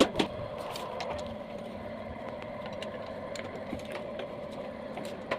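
Mazda T3500 truck's diesel engine running steadily with a ticking clatter, after an overhaul. Two sharp knocks come right at the start.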